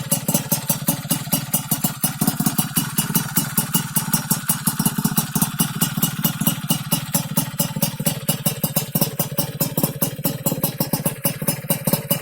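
Yamaha F1ZR two-stroke single-cylinder motorcycle engine idling steadily through an aftermarket stainless BM Power under-belly exhaust with a replica RCB rainbow silencer, the exhaust pulses coming in an even rhythm.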